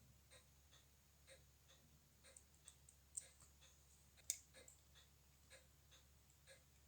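Faint, regular ticking of a mechanical watch, about two to three clicks a second, with two louder clicks in the middle.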